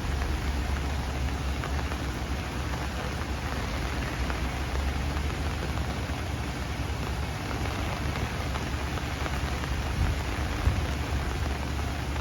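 Steady rain falling on trees: an even hiss of drops with a constant low rumble underneath, and one louder drop about ten seconds in.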